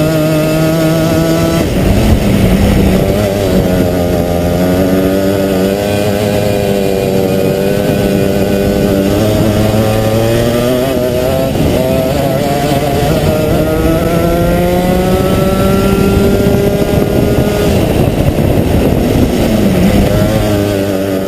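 Two-stroke Rotax kart engines running loudly, their pitch rising and falling over and over as the karts speed up and slow down.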